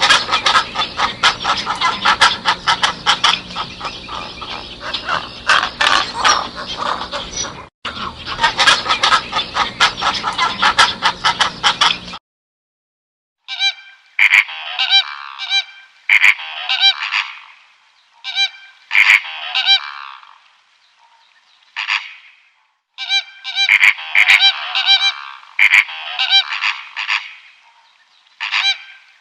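Birds honking. First comes a dense chorus of many overlapping calls for about twelve seconds. After a brief break, loud bursts of honks follow every second or two.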